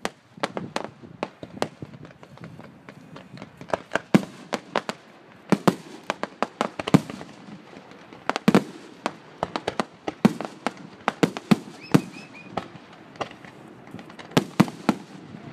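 Fireworks going off: many sharp bangs and pops at irregular intervals, sometimes several in a second, with the loudest reports a few seconds apart.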